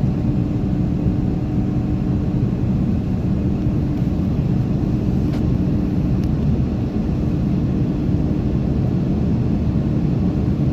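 Steady cabin drone of an Airbus A330-900neo, its Rolls-Royce Trent 7000 engines and airflow heard inside the passenger cabin as a deep, even roar with a low hum. A couple of faint clicks come near the middle.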